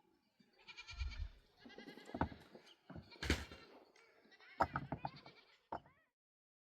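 Goats bleating, several separate calls one after another, until the sound cuts off suddenly about six seconds in.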